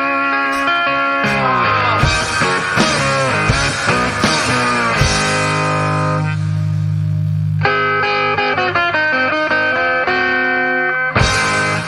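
Instrumental ending of a garage blues-rock song: distorted electric guitar playing sliding, bending notes over sharp drum hits, closing on a loud final chord about eleven seconds in that rings out and fades.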